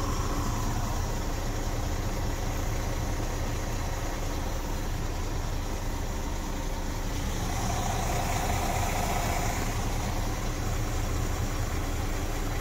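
Scania R440's 13-litre six-cylinder diesel engine idling steadily, with a brief higher tone joining in for a couple of seconds past the middle.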